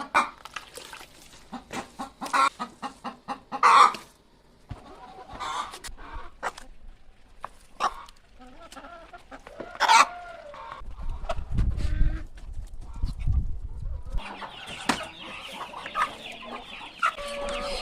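Domestic poultry clucking, in a run of short calls and clicks, with a low rumble a little past the middle.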